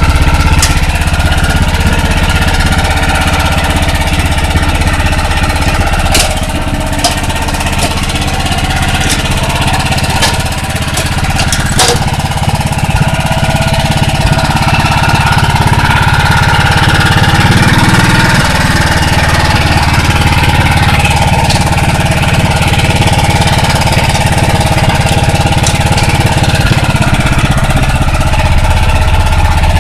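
Kawabe snowblower's Mitsubishi engine running steadily and loudly, with a few sharp clicks partway through and a brief shift in engine pitch later on.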